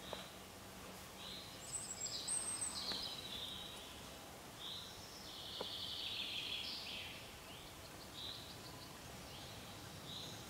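A songbird singing a varied run of high whistles and trills for several seconds, starting about a second and a half in, over a faint steady background hiss.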